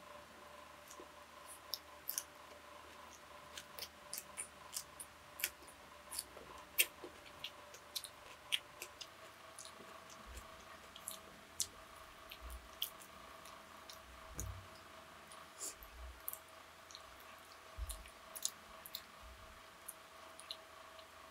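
A person chewing and eating close to the microphone: many small, scattered wet mouth clicks and smacks. A faint steady hum runs underneath, and a few soft low thumps come in the second half.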